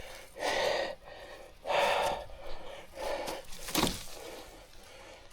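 A rider breathing hard, heavy breaths in and out about every second and a half, with a sharp click near four seconds in.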